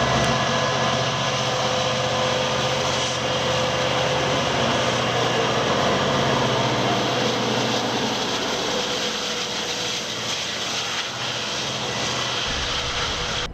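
Loud, steady engine noise from a large passing vehicle, holding a few constant tones without rising or falling, and cutting off abruptly at the end.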